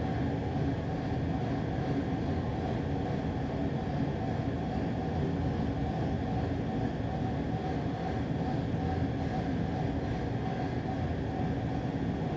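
A steady low mechanical rumble with a faint hum, even in level throughout.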